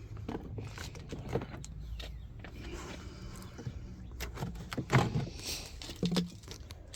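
Wooden beehive frames and boxes being handled: scattered light clicks and knocks, with two louder knocks about five and six seconds in, over a low rumble.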